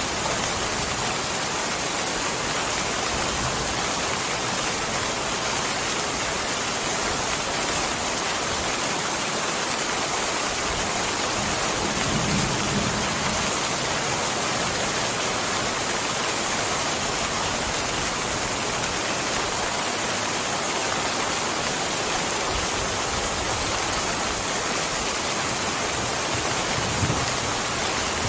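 Steady rain, an even hiss, with a brief low rumble about twelve seconds in.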